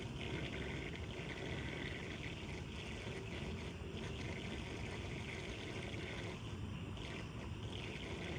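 Floodwater rushing and gurgling down a cleared street drain: a steady, continuous wash of water with brief dips in strength.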